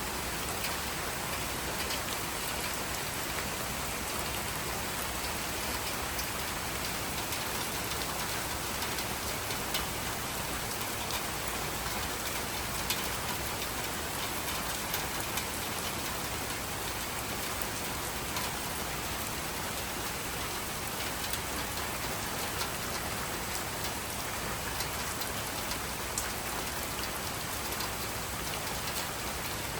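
Steady rain falling, with a constant hiss and many small drop ticks on a surface.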